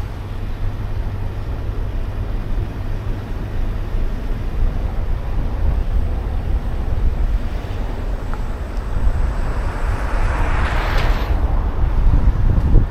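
Street traffic noise under a heavy low rumble of wind on the microphone. About ten seconds in, a vehicle passes close, its noise swelling and then fading.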